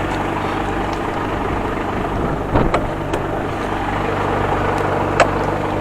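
Mercedes truck's diesel engine idling steadily, with a few sharp knocks, a cluster a little before the middle and one more about five seconds in.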